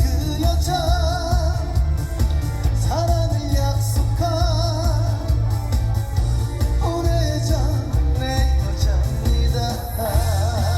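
Live trot song heard over a concert PA: a man singing long notes with wide vibrato over backing music with a heavy bass.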